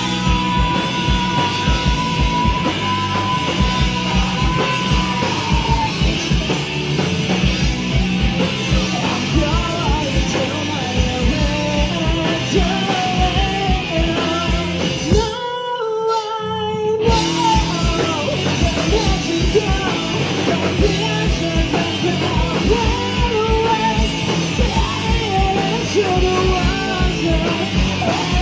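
A rock band playing live: electric guitar, bass, a fast steady drum beat and vocals. About halfway through, the drums and bass stop for about a second and a half, leaving only a few held notes, then the full band comes back in.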